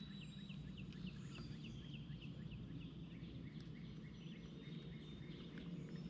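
A bird calling in a rapid series of short falling notes, about five a second, then a second, lower series, over a steady low hum.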